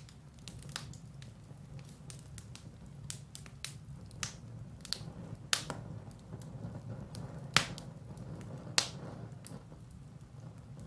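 Firewood burning in a fireplace: scattered sharp crackles and pops over a low steady rumble, with three louder pops in the second half.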